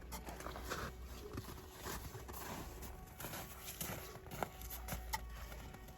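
Light, scattered knocks and clatter of pieces of pine wood being handled and set up for splitting into kindling. There are two sharper clicks in the second half.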